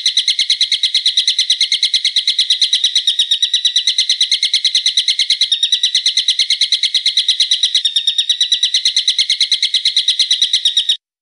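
A recorded bird song: one bird giving a long, fast trill of sharp, evenly repeated high notes. The trill stops abruptly near the end.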